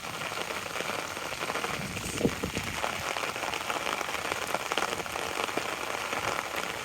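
Rain falling on an umbrella held overhead: a steady, dense patter of drops, with one slightly louder knock about two seconds in.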